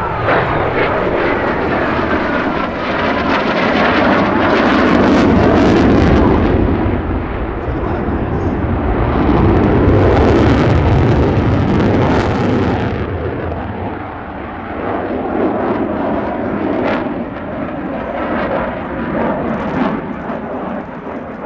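Lockheed Martin F-35A Lightning II's single afterburning turbofan jet engine, loud and surging in two big swells as the jet passes in display flight, then easing off.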